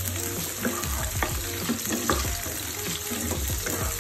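Chopped red onion, garlic and ginger sizzling in hot oil in a nonstick wok, stirred with a wooden spatula that scrapes and taps against the pan now and then.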